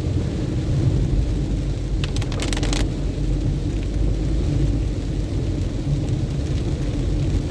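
A car driving on a rain-soaked highway: a steady low rumble of engine and tyres, with a brief burst of crackling about two seconds in that lasts under a second.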